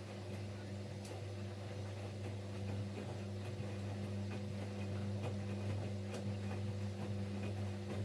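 Siemens Siwamat Plus 574 washing machine turning its drum during a rinse with fabric softener: a steady motor hum with light, irregular ticks over it.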